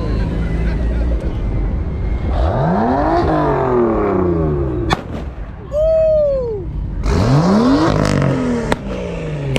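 Car engine revved twice, each time climbing quickly and then falling back, over a low rumble of idling engines. Between the revs there is a sharp crack, then a loud pitched call that rises and falls, like a shout.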